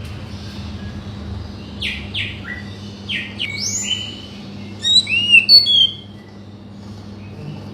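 Oriental magpie-robin (kacer) singing: a varied phrase of clear whistles, quick downward-sweeping notes and short clipped notes, loudest about five seconds in, over a faint steady hum.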